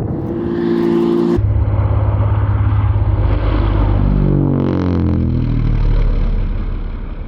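Extra 300L aerobatic plane's six-cylinder piston engine and propeller in display flight. The sound changes abruptly about a second and a half in, then the plane passes with its pitch falling around four to five seconds in and fades near the end.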